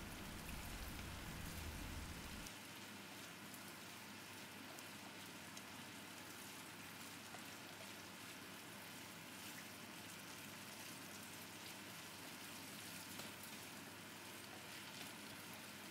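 Faint, steady sizzling of chicken pieces frying in a sauce of chillies, oyster sauce and soy sauce in a nonstick frying pan over a high flame, as they are stirred with a spatula.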